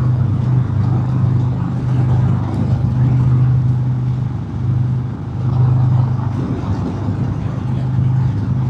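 Harley-Davidson Road King's Milwaukee-Eight V-twin running steadily at highway cruising speed, a deep even drone with road and wind hiss over it.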